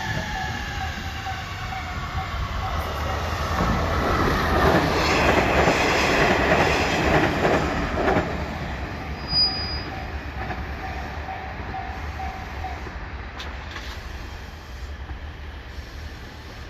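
A train passing through a railway level crossing: its running and wheel noise builds to a loud rush about four to eight seconds in, then fades, with a falling tone at the start. The crossing's warning bell rings in a steady repeating pattern throughout and stops about thirteen seconds in.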